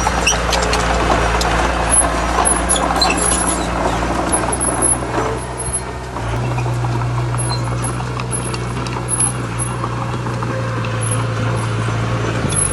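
Heavy diesel earthmoving machinery running steadily, with scattered clanks and rattles over the first five seconds. The engine note shifts about six seconds in.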